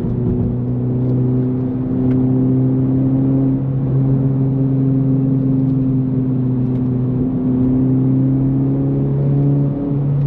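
Honda Civic Type R FL5's turbocharged 2.0-litre four-cylinder running through an aftermarket AWE Touring cat-back exhaust, heard from the cabin while driving. The engine and exhaust drone steadily at an even pitch, shifting slightly a few times, with a brief dip and a small rise in pitch near the end.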